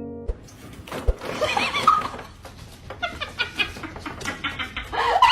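An animal, such as a pet, making a series of short calls, mixed with a few clicks and knocks.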